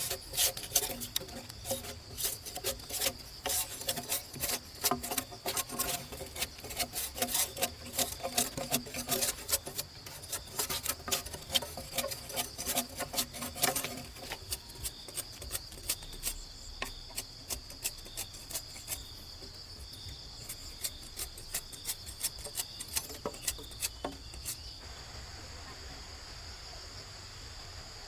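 Insects, crickets or cicadas, keep up a steady high-pitched drone. Over it come many irregular sharp clicks and scrapes, dense at first, thinning after about fourteen seconds and stopping a few seconds before the end.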